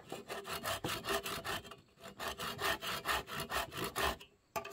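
Wood being sawn by hand: quick, even back-and-forth strokes, with a brief pause about two seconds in.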